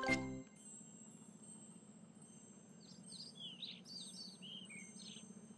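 Faint bird chirps over a quiet background with a low steady hum: a cluster of short, quickly bending notes from about three to five seconds in. Just before, a jingling music phrase cuts off.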